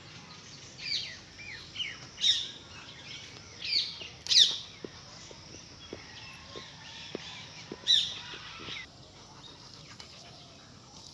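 Birds chirping: a scatter of short, sharp calls that drop quickly in pitch, coming in small clusters, the loudest about four and a half and eight seconds in.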